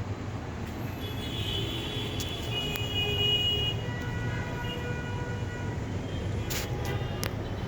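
Street traffic running steadily, with a vehicle horn sounding in the first half and a few sharp clicks near the end.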